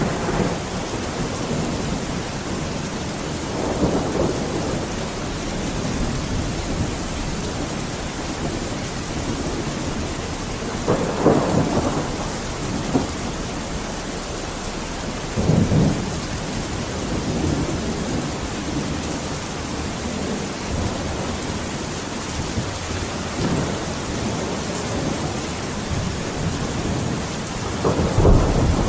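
Steady rain falling, with thunder rumbling several times over it; a deeper, louder rumble begins near the end.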